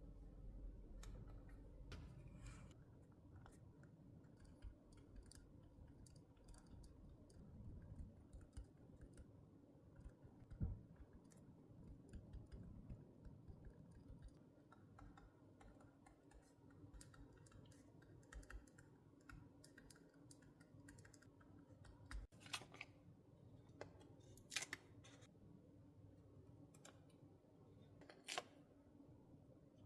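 Faint, irregular light clicks and taps of stationery and paper being handled at a desk while journaling, with a few sharper clicks in the second half.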